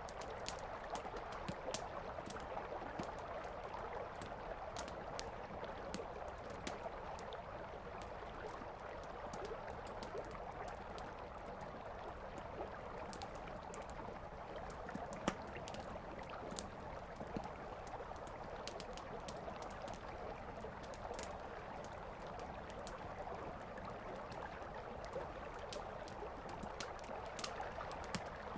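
Wood campfire crackling, with frequent sharp pops and snaps, one louder pop about midway, over the steady rush of a flowing river.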